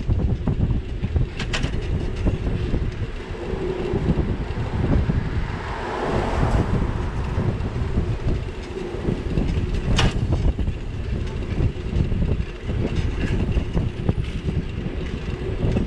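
Steady low rumble of wind and road noise on a bicycle-mounted GoPro's microphone while riding, with a sharp knock about ten seconds in.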